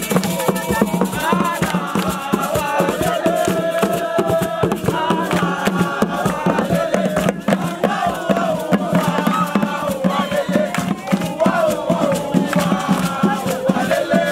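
A group of voices singing a chant together over rapid, steady percussion.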